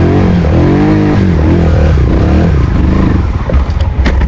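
Trials motorcycle engine revving up and down in quick throttle blips, its pitch rising and falling several times. Near the end the engine drops back and a few sharp knocks sound.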